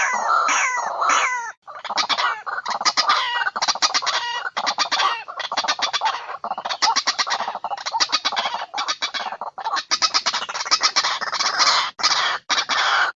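White-breasted waterhen (ruak-ruak) calling: rapid runs of harsh, clucking notes, several a second, with a short break about one and a half seconds in. It is a recording of the calls played as a lure to draw the birds in.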